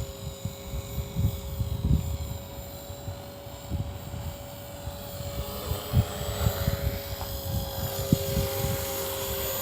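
Walkera V450D03 electric RC helicopter's rotor and motor whine steadily overhead while it fights gusty wind. Wind buffets the microphone in irregular low rumbles.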